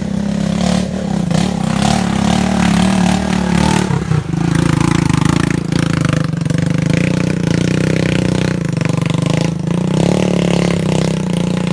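Small motorcycle engine running loud and steady at close range, carrying a passenger; its note dips and shifts about four seconds in.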